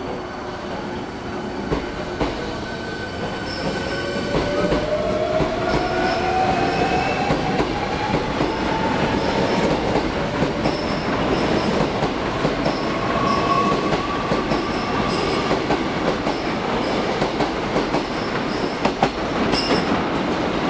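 Hankyu 1300-series electric commuter train pulling out and gathering speed. The whine of its inverter-driven traction motors rises steadily in pitch over the rumble of the wheels on the rails, with an occasional clack.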